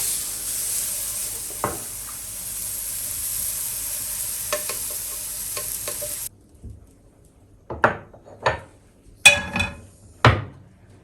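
Food sizzling in a hot pan with a few light utensil taps. The sizzle cuts off suddenly, and then plates and cutlery clink and knock against each other about six times.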